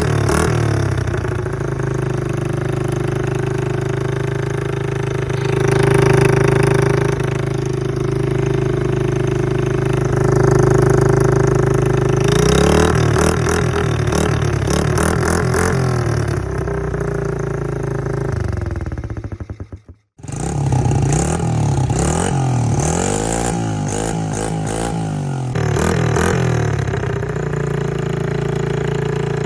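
Pit bike's single-cylinder engine running through a muffler whose inner plate has been drilled with holes to make it louder, holding a steady speed and revving up and down twice. The sound drops out suddenly about two-thirds of the way through, then the engine is heard again.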